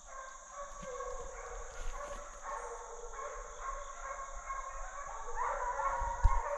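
Pack of deer hounds baying as they run a deer on a dog drive: a chorus of long, overlapping howls that grows louder about five seconds in. A short low thump near the end.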